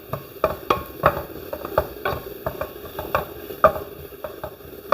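Onions, ginger and green chillies being stirred in a pan of hot coconut oil. The utensil knocks and scrapes against the pan at irregular intervals over a low sizzle of frying.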